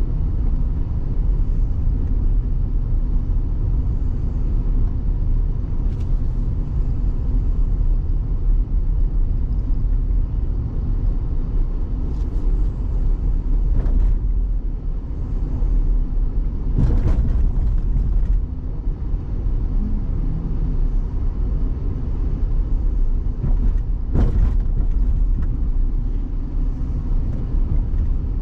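Vehicle driving on a dirt road: a steady low rumble of engine and tyres, broken by a few sharp knocks, about three of them spread through the middle and later part.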